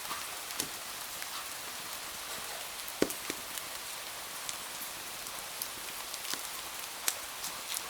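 Steady rain hiss with scattered sharp ticks and pops; the loudest pop comes about three seconds in.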